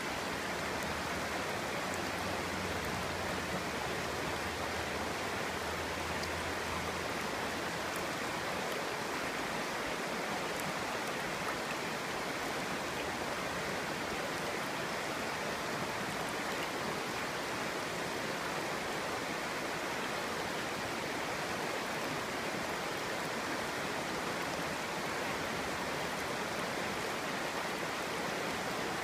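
A clear stream flowing over rocks: a steady, even babbling rush of water.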